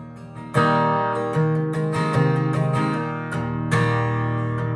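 Acoustic guitar strumming chords, with a hard strum about half a second in and another a little before the end.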